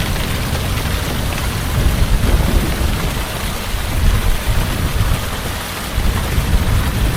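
Heavy rain falling steadily, with a low thunder rumble underneath that swells and eases.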